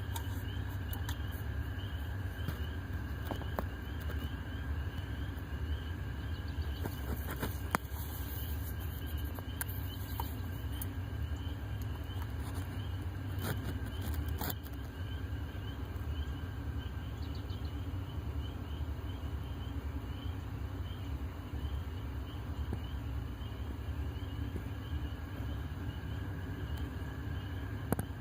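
Outdoor ambience: a steady low rumble with insects chirping in a fast repeating pattern, and a few scattered clicks.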